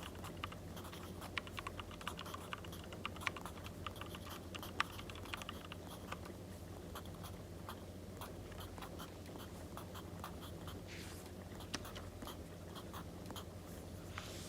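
Irregular small clicks and crackles, typical of a wood fire, over a steady low hum, with a short rustle of paper about eleven seconds in and again near the end.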